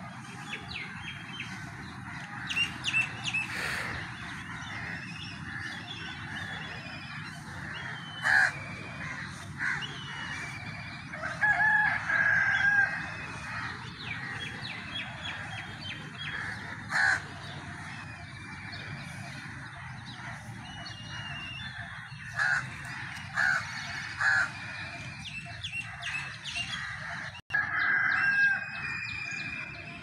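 Birds calling: a mix of short chirps and harsher calls, several loud ones standing out, the strongest about 12 and 28 seconds in, over a steady low rumble.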